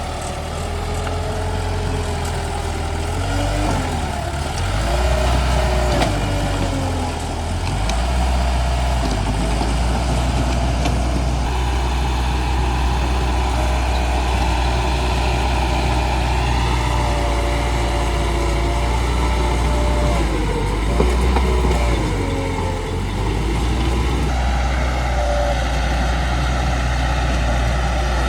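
Bulldozer's diesel engine running under load, a steady low rumble whose pitch rises and falls repeatedly as the machine works.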